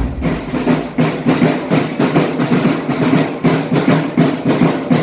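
A marching drum band playing a fast, dense pattern of drum strokes.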